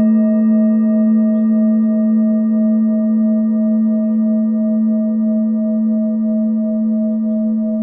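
Singing bowl ringing on after a strike: a steady low hum with higher overtones, one of them wavering in a quick regular pulse, the whole slowly fading.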